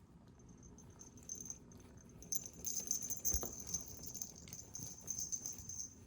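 Cat toy being shaken in play, rattling and jingling in quick small clicks that get busier after about two seconds, with one soft knock a little past the middle.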